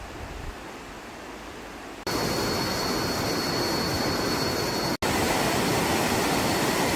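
Rushing river water, a steady noise without a beat. It jumps louder about two seconds in and breaks off for an instant near five seconds, where the recording is cut. A thin, steady high tone runs over it from the jump on.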